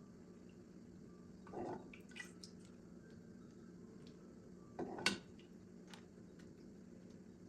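Quiet kitchen work: a few soft, short handling noises, wet squishes and light taps, over a faint steady hum.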